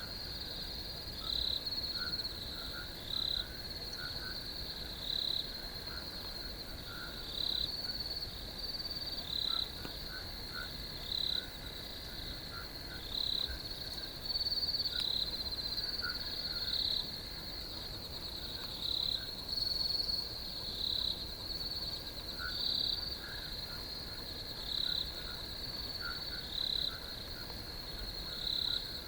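Crickets chirping: a steady high-pitched trill with louder chirps standing out every second or two, and fainter scattered chirps lower in pitch.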